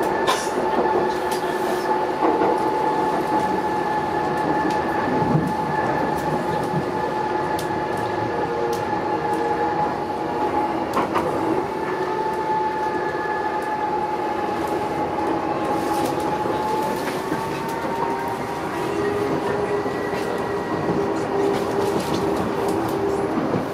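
Docklands Light Railway train running, heard from inside at the front: a steady electric whine over the rumble of the wheels on the rails. Occasional clicks come as the wheels pass over rail joints and points.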